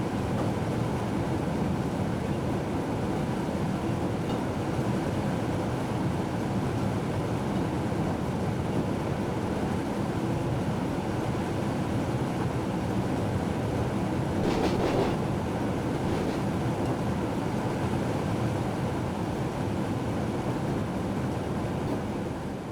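Train running, heard from inside the cab: a steady rumble, with a brief clatter of a few knocks about two-thirds of the way through.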